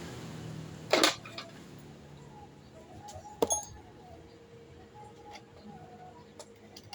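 Two sharp metallic clinks, about two and a half seconds apart, the first the louder, with lighter ticks between them: metal tools or parts being handled on a workbench.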